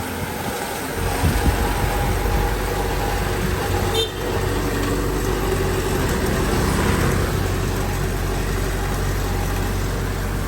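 Heavy diesel machinery engine running steadily, with a short click and a brief dip in level about four seconds in.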